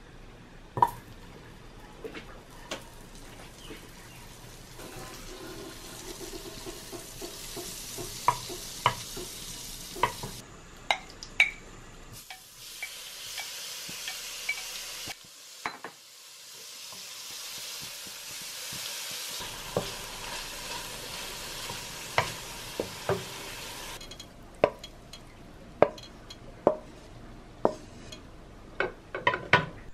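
Diced salmon sizzling in hot oil in a wok, with a wooden spatula and chopsticks clicking and scraping against the pan and bowl. The sizzle fades out about three-quarters of the way through, leaving only the clicks of the utensils.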